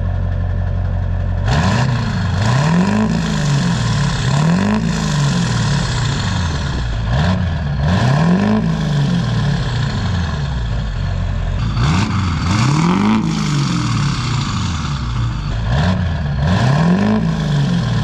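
2002 GMC Sierra 2500HD's 6.6-litre Duramax LB7 diesel V8, exhaling through a new 18-inch MBRP 4-to-6-inch exhaust tip, revved about ten times in short blips from idle for a decibel test. Each rev rises and falls back, with a few seconds at idle near the start and again around the middle.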